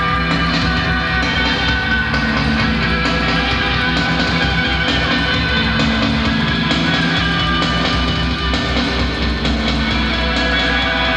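Live rock band playing a guitar-led passage with no singing.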